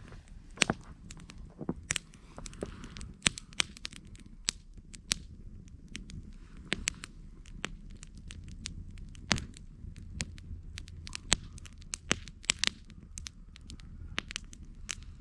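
Campfire wood crackling, with irregular sharp pops scattered through, over a low steady rumble of the flames.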